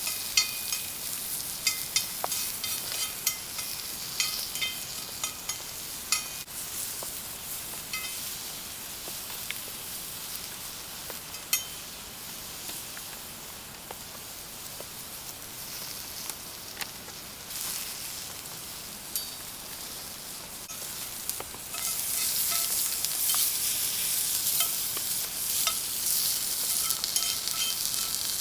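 Food sizzling in a hot pan, with many short clicks of stirring throughout; the sizzle grows louder about three-quarters of the way through.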